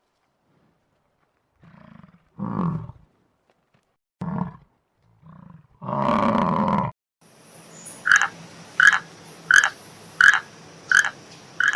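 A large animal gives several deep roaring calls, the longest about six seconds in. Then a different animal calls instead: a short call, six times, about every three-quarters of a second.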